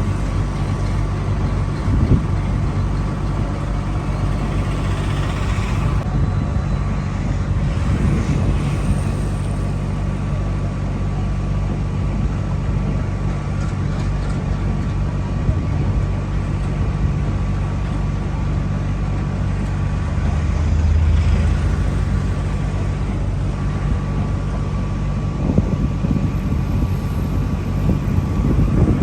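A vehicle's engine running with a steady drone, with a few brief knocks and a short swell in level about two-thirds of the way through.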